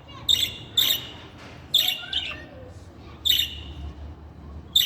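Budgerigar giving short, sharp chirps, about six of them at irregular intervals.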